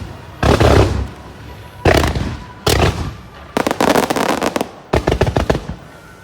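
Aerial fireworks bursting close to the launch site: heavy booms about a second apart, then a rapid string of sharp cracks around four seconds in, dying away near the end.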